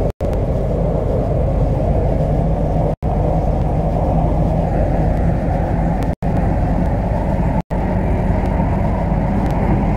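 MTR C-Train electric train running at speed between stations: a steady rumble with wheel-on-rail noise, its hiss growing a little brighter about halfway through. The sound cuts out for an instant about four times.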